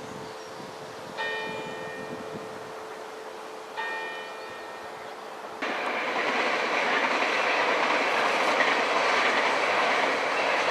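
Dutch passenger train: over a steady electrical hum, two bell-like chimes ring about two and a half seconds apart. About halfway through, the sound jumps suddenly to a louder, steady rail noise.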